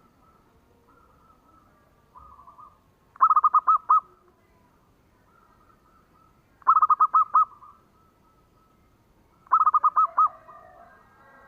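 Zebra dove (perkutut) cooing: three loud bouts of about six quick, evenly repeated notes, roughly three seconds apart, with fainter cooing from other doves in between.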